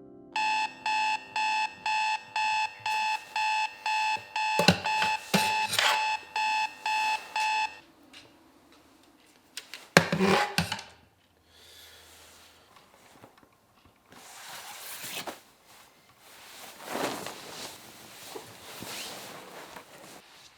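Electronic alarm clock beeping in even pulses, about two a second, for roughly seven seconds, then cutting off. A few knocks come during the beeping, a loud knock about two seconds after it stops, then soft rustling.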